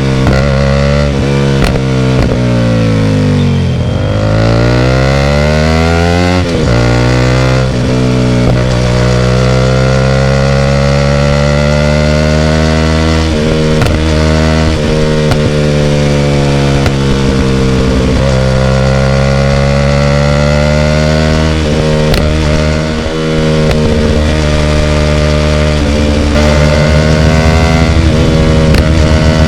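Hyosung GT250R's V-twin engine running loud through an Ixxile Racing aftermarket exhaust while riding. The engine note drops to a low point about four seconds in, then rises again and climbs slowly for the rest, breaking off briefly several times along the way.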